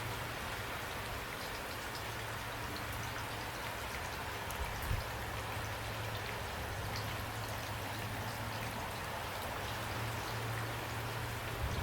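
Steady rain: an even hiss with scattered individual drops ticking. A soft low thump comes about five seconds in and another near the end.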